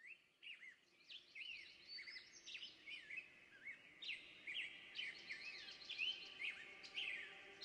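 Birdsong: several birds chirping, with quick rising-and-falling chirps that overlap and grow louder over the stretch.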